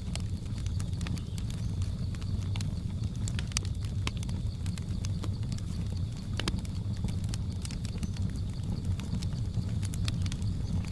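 Wood fire crackling: irregular sharp pops and snaps over a steady low rumble of burning, with a faint steady high hum from the jungle ambience underneath.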